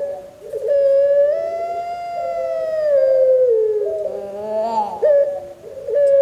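Puter pelung (Barbary dove) cooing: a short rising note, then a long drawn-out coo of nearly three seconds that rises gently and falls away, then another short rising coo about five seconds in.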